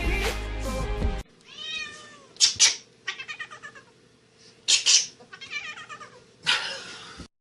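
Music for about the first second, then a cat meowing over and over in arching, pitched cries, with several short, loud outbursts.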